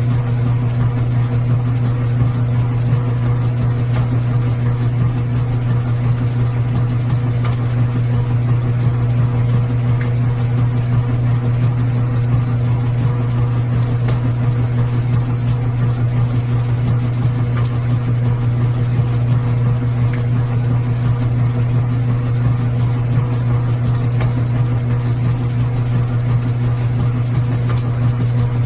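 Washing machine running with a steady, unbroken low hum and a few faint ticks.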